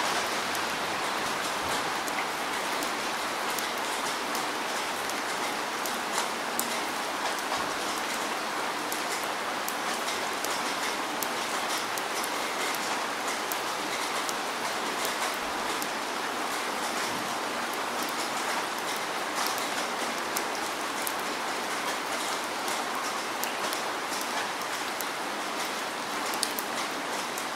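Steady rain falling: an even hiss with many small, sharp drop ticks.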